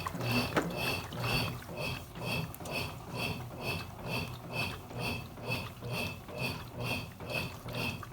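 Consul Cargo 8 kg washing machine agitating its load in water: an even, repeating swish of about two strokes a second, each stroke with a short high motor whine.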